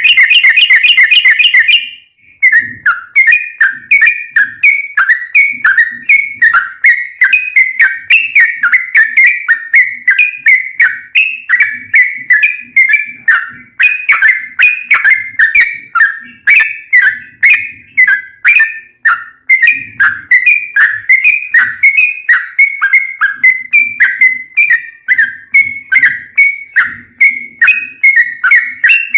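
Yellow-vented bulbul (trucukan) singing a long unbroken run of short bubbling notes, several a second, around one pitch, opening with a rapid trill.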